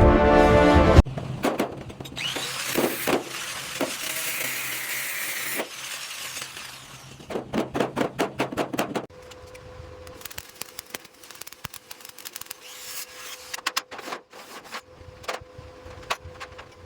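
Workshop tool sounds: irregular scraping and rubbing strokes, with a quick run of about five strokes a second near the middle, then scattered clicks and taps over a faint steady hum. Music cuts off about a second in.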